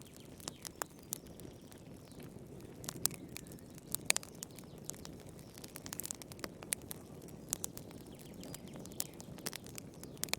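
Fire in a fireplace crackling: irregular sharp pops and snaps, a few louder than the rest, over a soft steady low rushing.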